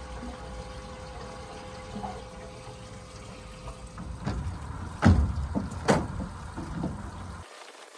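Water running and splashing in a boat's live bait tank over a steady low hum, with two sharp knocks about five and six seconds in. The hum cuts off suddenly near the end.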